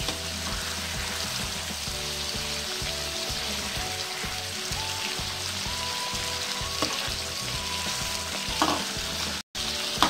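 Shrimp frying in hot oil in a wok over high heat, a steady sizzle, with a few sharp knocks of the metal spatula against the pan as they are turned. The sound drops out for an instant near the end.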